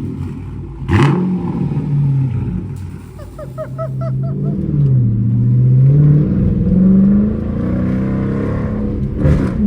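Straight-piped Dodge Charger R/T V8 exhaust, the engine revving: the pitch sinks about halfway through, then climbs again. There is a sudden louder burst about a second in and another near the end.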